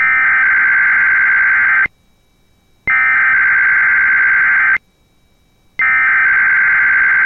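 NOAA Weather Radio SAME digital header: three bursts of rapidly alternating data tones, each nearly two seconds long and about a second apart, sent as the Required Weekly Test to trigger alert receivers.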